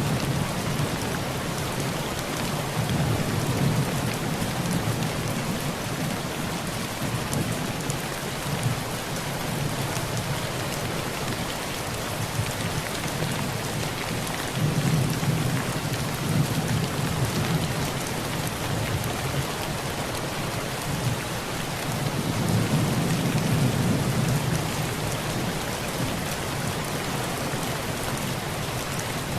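Heavy rain drumming steadily on a tin roof, with low thunder rumbling in long swells three times: a few seconds in, about halfway, and again about three-quarters of the way through.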